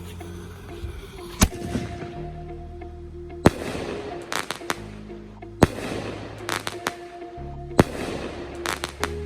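Consumer fireworks going off in a string of sharp bangs, some in quick clusters, every second or two, several trailing a hissing crackle. Background music with a steady bass plays underneath.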